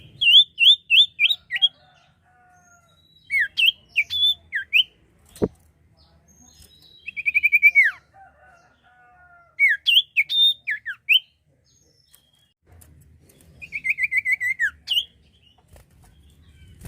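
Sirtu songbird singing loudly in short phrases of quick repeated whistled notes, some phrases ending in a falling slur, five phrases with short pauses between them. A single sharp click sounds in the middle.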